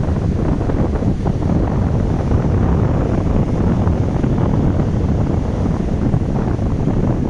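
Strong beach wind buffeting the microphone in a loud, rough, low rumble that never lets up.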